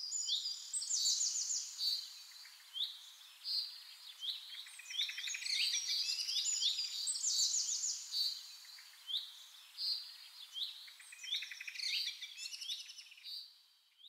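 Several birds singing and calling together: many short sweeping chirps and quick trills overlapping one another without a break.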